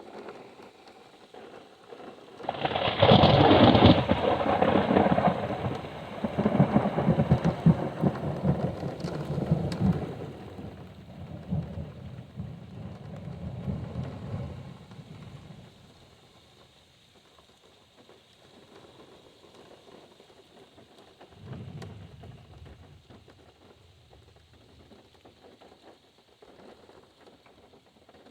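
Thunder: a loud clap about two and a half seconds in that rolls on as a long rumble, fading out over about twelve seconds, then a fainter rumble of thunder near the end. Steady rain falls throughout, heard from inside a car.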